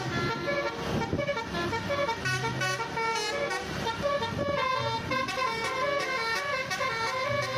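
A busy, continuous run of pitched electronic toots and beeps at many different pitches, changing several times a second, horn-like in character.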